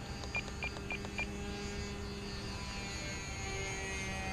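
Four short high-pitched electronic beeps about a quarter second apart, over the steady drone of a model airplane's glow engine in flight.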